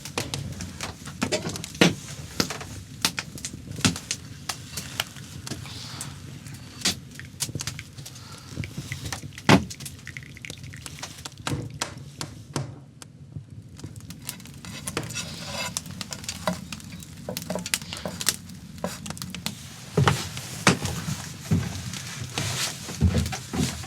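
Irregular run of sharp crackles and clicks over a low steady hiss, with a few louder knocks about ten seconds in and again near the end.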